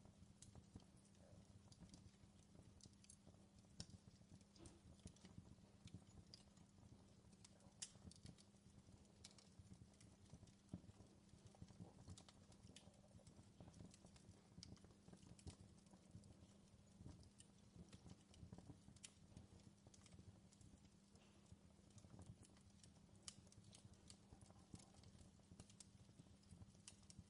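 Fireplace crackling faintly: irregular small pops and snaps over a low, steady rumble.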